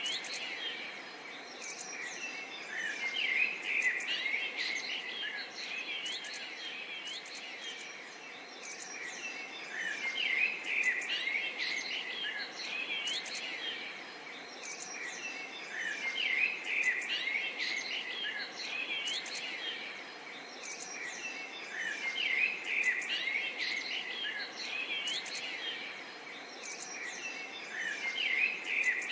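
Many birds chirping and singing at once in a dense chorus over a faint steady hiss, the calls swelling and easing every few seconds.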